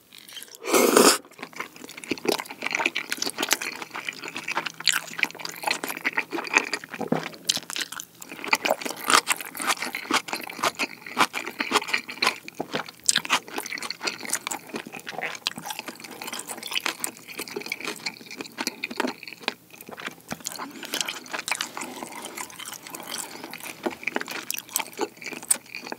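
Close-miked wet chewing of a mouthful of kimchi pizza tangsuyuk, saucy fried pork with kimchi and melted cheese: a loud wet intake as the mouthful goes in about a second in, then steady irregular smacking and squelching as it is chewed.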